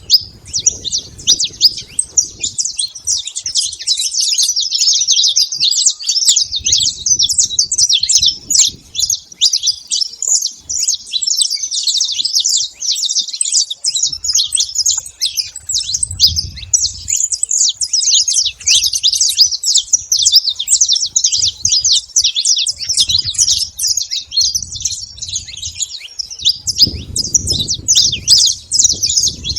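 Saffron finch song: a long, nearly unbroken run of fast, high chirping notes, with a low rumble coming and going underneath.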